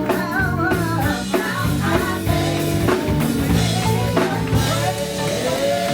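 Live gospel band playing: a singer's wavering melody over electric guitar, bass and a drum kit keeping a steady beat.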